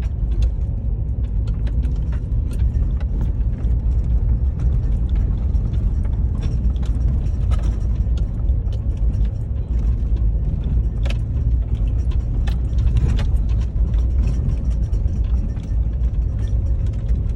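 Four-wheel-drive vehicle heard from inside the cabin, crawling along a rough dirt road: a steady low rumble of engine and tyres, with frequent small knocks and rattles as it jolts over the ruts and rocks.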